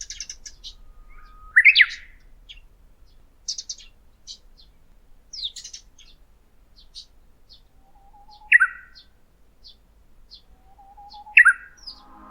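Birds singing: many short, high chirps, with a louder song phrase, a low whistled note running into sharp high notes, heard three times a few seconds apart.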